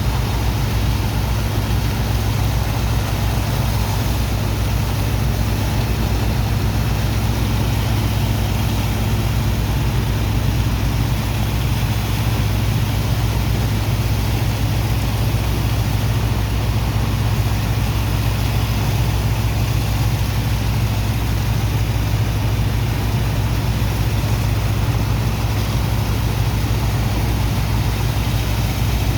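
Heavy engine of a sand dredger pump running steadily with a deep hum, over a constant even hiss.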